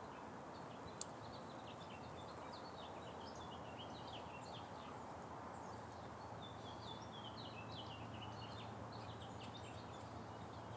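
Small birds chirping repeatedly against a steady outdoor background hiss, with a single sharp click about a second in.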